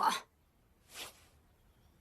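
A spoken line ends, then near silence with one short, soft hiss about a second in.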